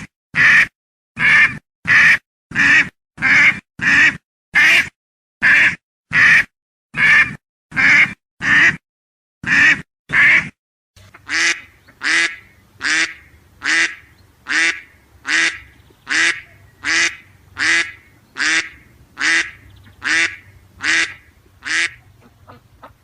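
Duck quacking over and over, short loud quacks about one or two a second. About eleven seconds in a second recording takes over, with similar steady quacks over a faint low hum.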